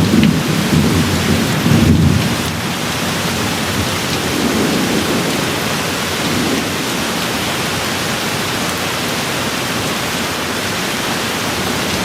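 Steady heavy rain hissing, with low thunder rumbling in the first couple of seconds and swelling faintly again a little later, then easing off to rain alone.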